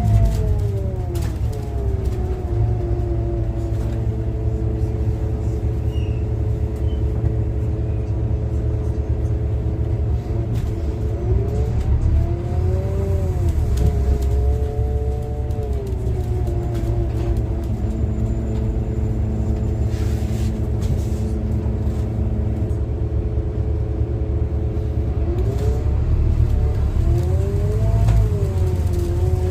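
Scania N250UD double-decker bus on the move, heard from the top deck: a steady low engine and road rumble with a whine that rises and falls as the bus speeds up and slows. The whine drops at the start, climbs about twelve seconds in, falls again, and climbs once more near the end.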